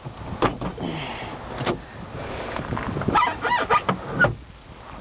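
Sharp clicks and knocks from the Jeep's latches and trim being handled, with a short run of squeaking a little after three seconds in.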